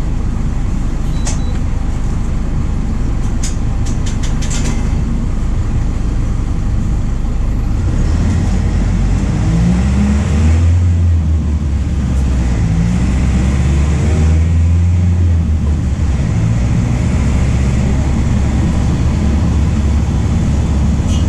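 MAN D0834 four-cylinder diesel in a VW 17.230 OD bus running under way, with a few sharp clicks or rattles in the first few seconds. About eight seconds in, the engine pitch rises as the bus accelerates, drops briefly at a gear change, rises again and then holds steady.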